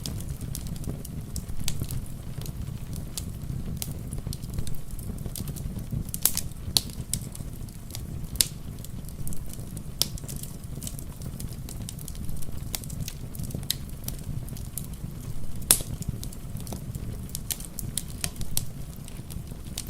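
Wood fire in a fireplace crackling, with irregular sharp pops and snaps, the loudest about six seconds in and near the end, over a low steady rumble of rain.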